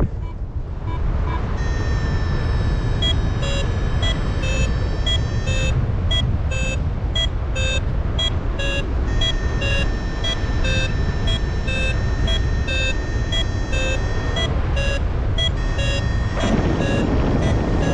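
Paragliding variometer beeping in short repeated tones, about two a second, with a held steady tone at times, the beeping that signals the glider is climbing in a thermal. Strong wind rumble on the microphone underneath.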